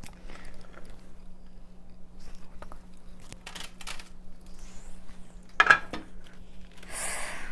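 Handling noises of bread on a plate: soft rustles and small clicks, a sharper clatter a little before six seconds in and a short rustle near the end, over a faint steady electrical hum.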